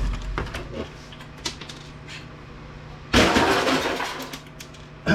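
A few light clicks and knocks of handling, then a loud clatter of hard scrap pieces about three seconds in that dies away over a second, and another sharp clatter at the end: salvaged UPS circuit-board parts being tossed onto a pile.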